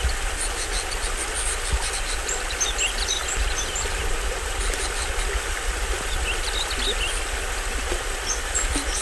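Small stream waterfall splashing steadily, with a low rumble underneath. Forest birds chirp briefly over it in a few clusters, around three seconds and seven seconds in and again near the end.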